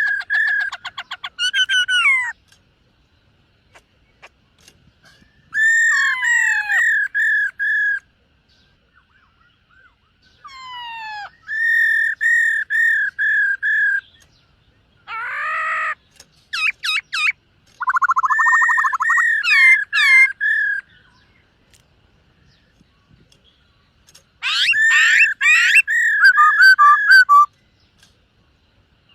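Black-throated laughingthrush singing: loud whistled phrases of quickly repeated slurred notes, six phrases with short pauses between them.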